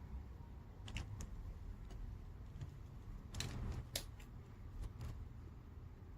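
Light plastic clicks and taps of gel pens being handled: a couple of clicks about a second in, a quick cluster around three and a half to four seconds, and a few more near the end.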